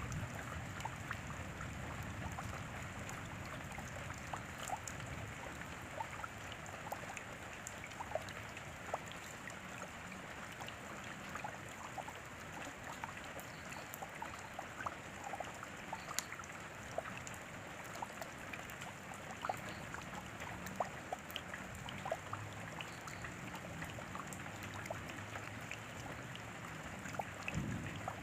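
Steady rain, with many separate drops ticking in irregularly over a continuous hiss.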